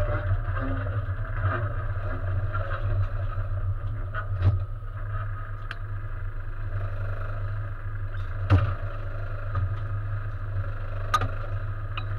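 Race car's engine running at a low idle, heard from inside the stripped cabin, with a few sharp knocks and clunks, the loudest about two-thirds of the way in.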